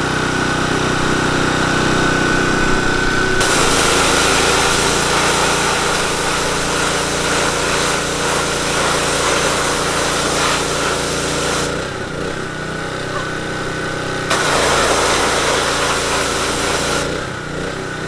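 A small engine runs steadily throughout. Twice a loud, even hissing rush comes in on top of it: from a few seconds in until about two-thirds of the way through, and again briefly near the end.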